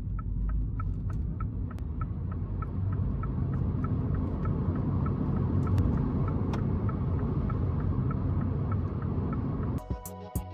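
Mini Cooper SE electric car accelerating hard. Road and tyre rumble grows louder over the first few seconds and then holds, with a steady rapid ticking about four times a second. Music cuts in near the end.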